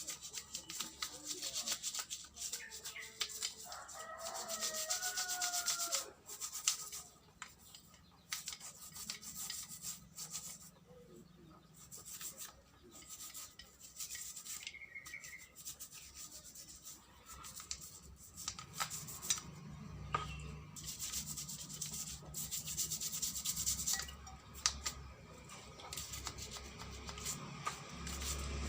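Repeated rubbing and scraping with small clicks, as carburetor parts are handled and cleaned. A rooster crows once about four seconds in.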